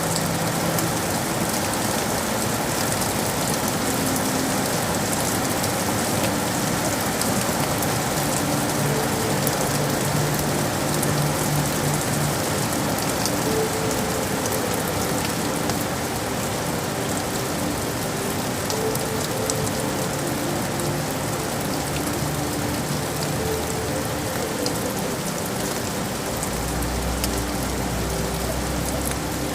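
Steady rain falling, with many individual drops striking hard surfaces. A low rumble comes in near the end.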